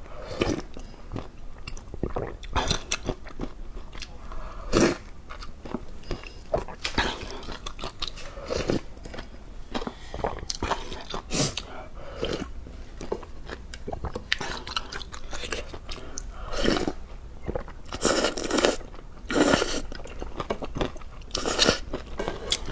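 Close-miked eating: repeated crunching bites and chewing, irregular and uneven, with several louder crunches near the end.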